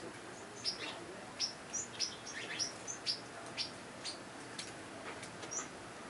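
Small songbirds chirping: short, high chirps come a few times each second, with two lower, falling notes about two and a half seconds in.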